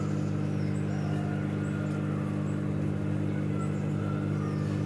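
Samsung front-load washing machine's drain pump running with a steady, even hum as it pumps the rinse water out of the drum.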